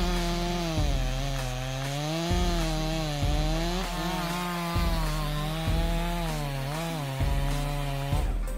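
Chainsaw engine running under load as it cuts through wood, its pitch dipping and recovering as the chain bites. A thump recurs about once a second.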